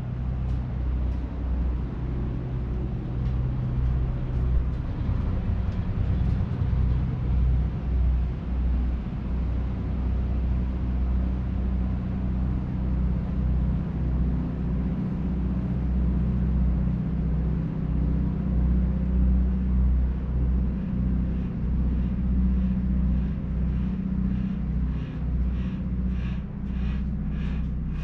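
Steady low mechanical rumble with a hum, like a running engine. Near the end comes a run of evenly spaced light knocks, about one and a half a second.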